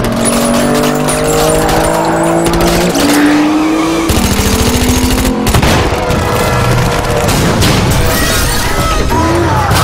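Film car-chase soundtrack: high-revving car engines pulling up through the gears, with tyres squealing, over music.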